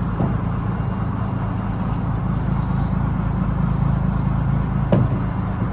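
Fishing trawler's engine running steadily, a low even hum, with a single knock near the end.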